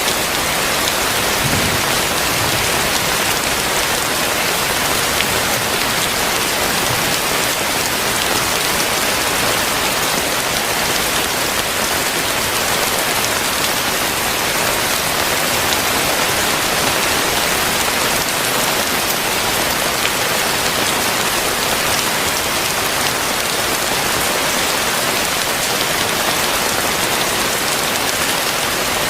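Heavy rain falling steadily, a dense, even hiss of drops striking surfaces with fine scattered patters.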